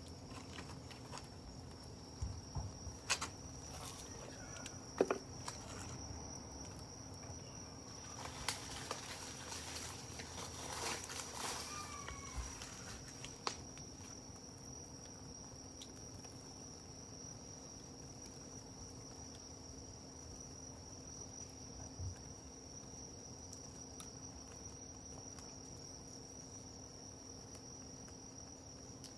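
Insects trilling steadily at a high pitch, with scattered crackles and pops from a wood campfire, clustered in the first half.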